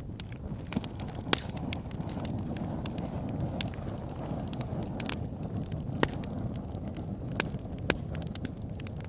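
Wood fire burning in a fireplace: a steady low rush of flames with irregular sharp crackles and pops from the logs, a few louder pops scattered through.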